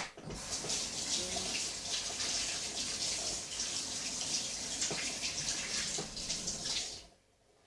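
Water running steadily from a tap, then shut off suddenly about seven seconds in.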